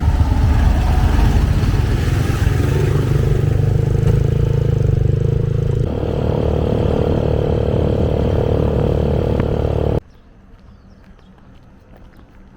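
Motorbike engine running on the move, its note shifting about six seconds in. About ten seconds in it cuts off abruptly, leaving a quiet background.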